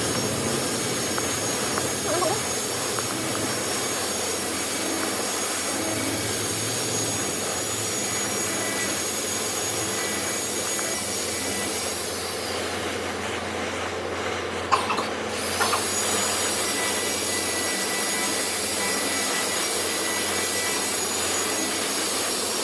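Woodworking power tool running steadily with a hissing noise and a faint high whine. Its hiss drops for a few seconds about halfway through, and a few sharp knocks come just after.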